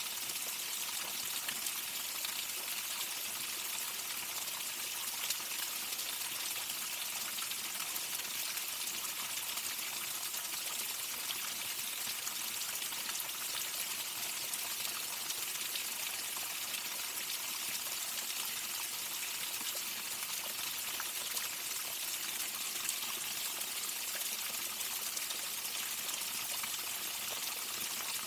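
Waterfall: falling water making a steady, even rush, mostly high-pitched, that does not change.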